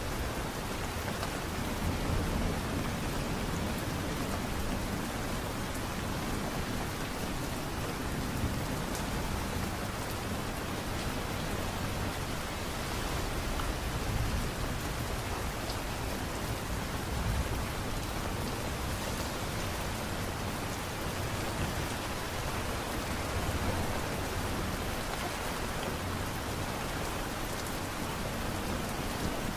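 Steady light rain falling, an even hiss, with a low rumble swelling up now and then.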